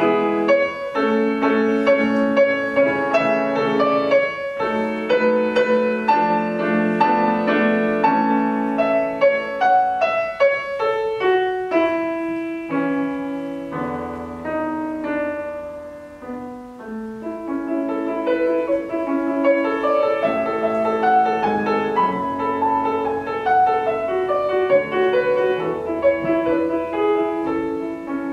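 Solo piano playing a classical piece in sustained, overlapping notes. It grows softer around the middle, then swells again.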